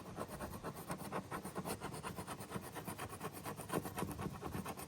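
Plastic trim tool scraping sticky decal adhesive residue off a boat's fiberglass hull in quick, repeated short strokes.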